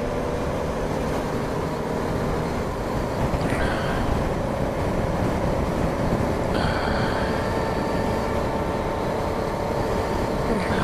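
BMW G 650 GS Sertao's single-cylinder engine running steadily at cruising speed, under heavy wind rushing over the microphone.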